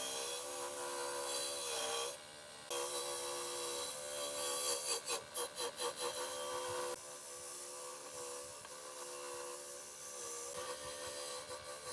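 Abrasive tool work on metal engine parts: a small motor runs steadily while something scrapes and rubs. About halfway through comes a run of about six quick back-and-forth strokes.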